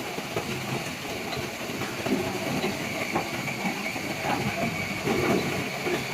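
Industrial juice extractor machine running: a steady mechanical rattle with a constant high whine and scattered clicks.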